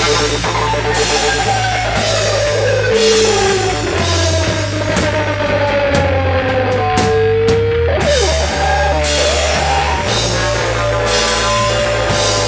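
Rock band playing live: drum kit with a cymbal hit about once a second over a steady bass, and an electric guitar lead line that slides down and back up in pitch.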